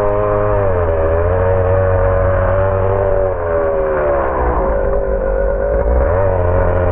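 HPI Savage X4.6 nitro truck's small nitro engine running at high revs, its pitch sagging and picking back up a few times as the throttle changes.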